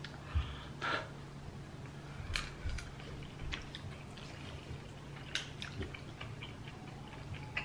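Two people chewing spoonfuls of creamy pasta, with scattered short clicks of metal spoons against small plastic cups and mouth noises, over a steady low hum.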